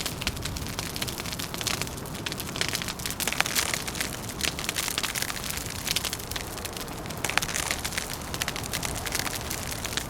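Log fire crackling, dense quick snaps and pops, over a steady low rumble of wind.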